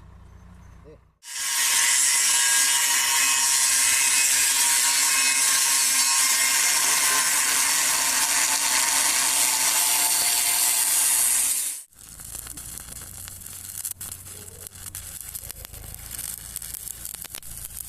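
A power tool cutting steel runs loudly for about ten seconds, starting and stopping abruptly, then gives way to fine, rapid crackling typical of arc welding.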